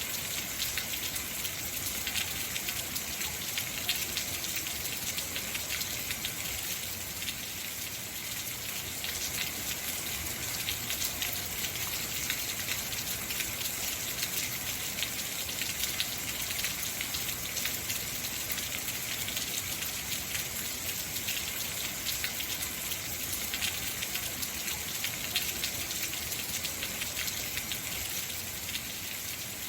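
Heavy rain falling steadily, a constant rush dotted with the patter of individual drops.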